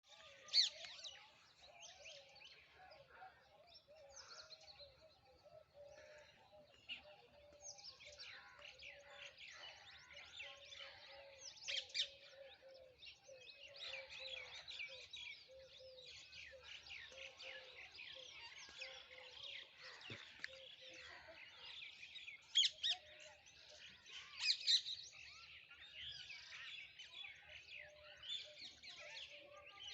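A flock of parrots chattering, with many overlapping shrill calls and a few louder shrieks scattered through. A low, repeated note runs underneath for about the first two-thirds, then fades.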